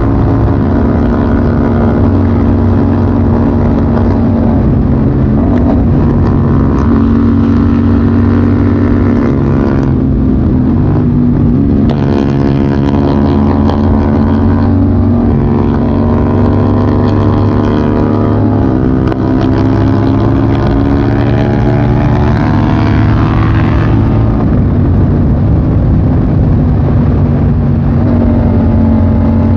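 Motorcycle engine running on the road. The revs climb in the middle, drop sharply at a gear change about 19 seconds in, climb again, then settle to a steady cruise.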